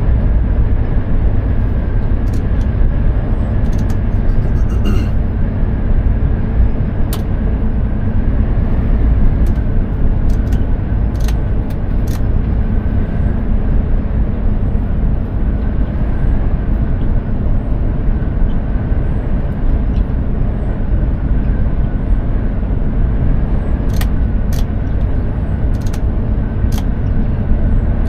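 Mercedes-Benz Actros 2763 truck driving: the steady drone of its straight-six diesel engine and tyre and road noise, with a few scattered faint clicks.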